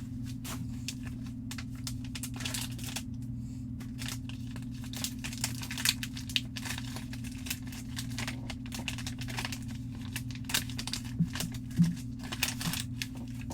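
Plastic wrapping and packaging of a trading-card box crinkling and tearing as it is opened, in an uneven string of quick crackles, over a steady low hum.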